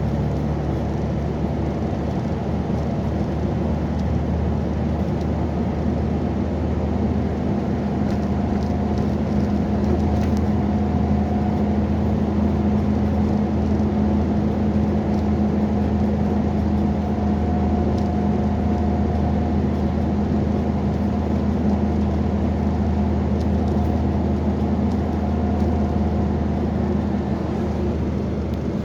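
A heavy vehicle's engine running steadily at a constant pitch, a low, even drone.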